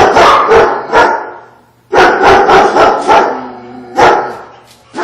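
Dog barking in quick runs of several barks: two runs, then a single bark near the end.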